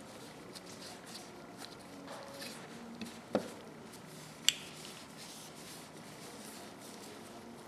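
Quiet handling of a small metal tool: soft rubbing and small clicks, with a knock a little over three seconds in and a sharp click about a second later.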